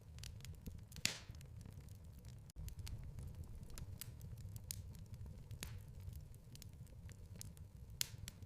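Wood fire in a fireplace crackling: a steady low rumble of flames with irregular sharp pops and snaps, the loudest about a second in and near the end.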